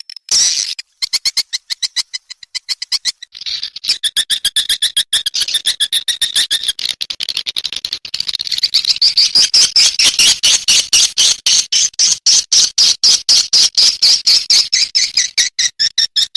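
Swiftlet chirping calls from a swiftlet-house lure recording, a rapid rattling stream of many clicky chirps a second. Sparse at first, the chirping thickens into a continuous fast chatter about four seconds in.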